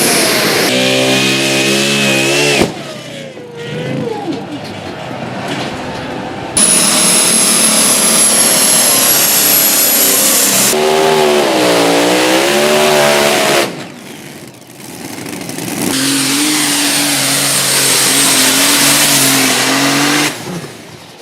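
Engines of pulling tractors and trucks running hard near full throttle, in several short clips cut one after another. The revs waver up and down in one, a high whistle sounds over another, and there are quieter gaps between them.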